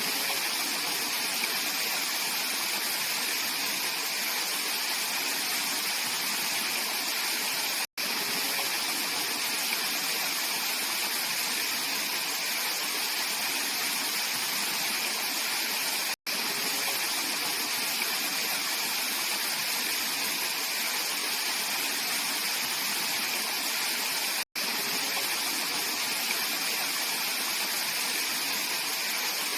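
Mountain stream rushing steadily over rocks, a bright, even water noise. Three very brief dropouts to silence come about eight seconds apart.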